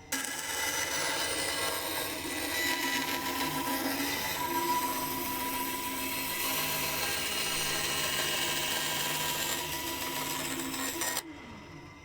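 Carbatec 10-inch bandsaw running with its blade cutting through wood: a steady, even hiss with a few faint tones in it. It stops suddenly about a second before the end.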